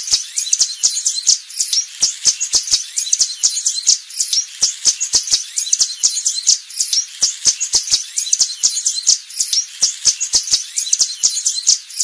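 Small songbird chirping: a fast, unbroken run of short, high chirps, several a second.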